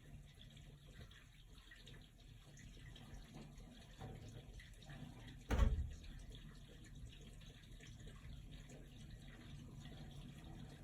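Water draining through a drain pipe, a faint steady rushing with a low hum, and one sudden loud low thump from the pipe about five and a half seconds in. This is the abnormal drain-pipe noise of unknown cause, which carries even through a wall.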